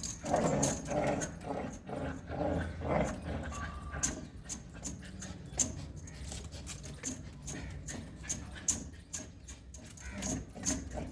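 American Pit Bull Terrier panting, at about two breaths a second in the first few seconds, with many sharp clicks and clinks throughout.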